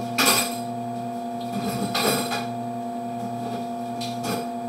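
Steady electrical hum with three short knocks or clatters, the loudest about a quarter second in, another around two seconds and a fainter one near the end.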